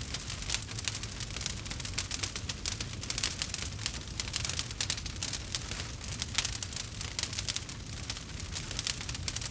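Campfire burning with dense, irregular crackling and popping over a low steady rumble of the flames.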